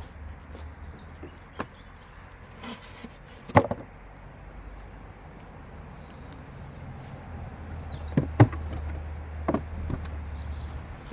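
A few sharp knocks and clicks of handling, the loudest about three and a half seconds in, over a low rumble of wind on the microphone, with birds chirping faintly.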